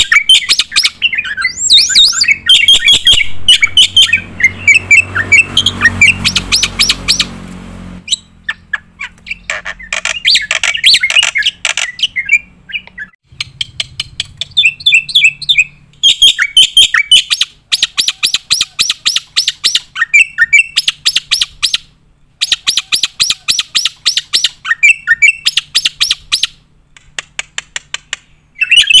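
Black-winged myna (jalak putih) singing loudly in long runs of rapid, sharp, repeated chattering notes and squawks, broken by a few short pauses.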